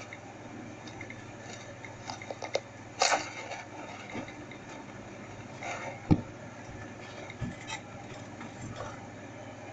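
Faint scattered small clicks and taps over a low steady hum, with one sharper knock about six seconds in.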